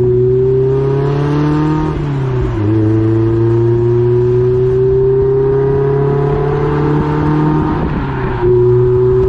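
Mazda MX-5 ND four-cylinder engine through an Ulter sport exhaust, pulling under acceleration with its pitch climbing steadily. The pitch drops at two gear changes, about two seconds in and again near the end, then climbs again in the next gear.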